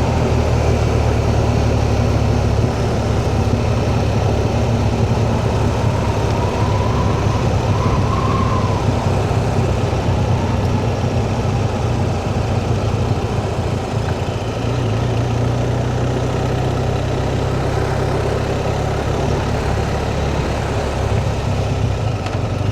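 Motorcycle engine running steadily while riding, under a constant rush of wind noise. The engine note shifts a few seconds in and again about two-thirds of the way through.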